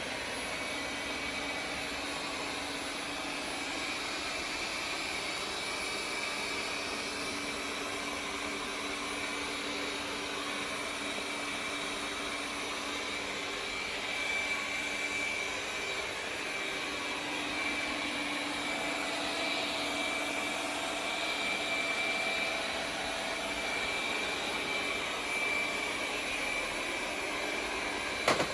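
Roidmi Eva robot vacuum running, a steady whir with a thin high whine. There is a short sharp click near the end.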